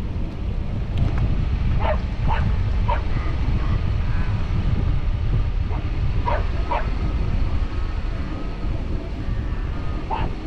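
Wind buffeting the microphone with a loud, steady low rumble, and over it a few short, sharp animal calls in two bunches: three about two seconds in and two more a little past six seconds.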